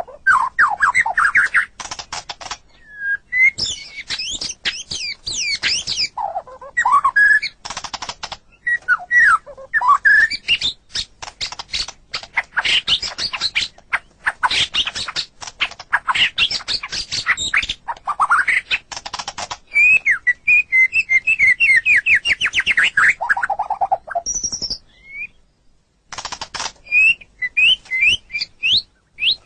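White-rumped shama singing a long, varied song of fast sweeping whistles, rapid trills and harsh clicking notes, with a short pause near the end.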